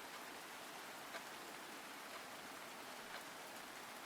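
Steady, faint rain, an even hiss with a small drip-like tick about once a second.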